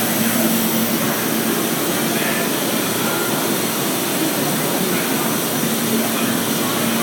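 R160 subway train in the station, a steady rush of noise with a constant hum of one pitch that fades in the middle and comes back near the end.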